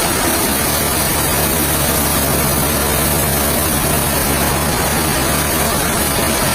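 Sawmill machinery running steadily: a heavy engine's even low hum under a loud, constant hiss, with no change in pace.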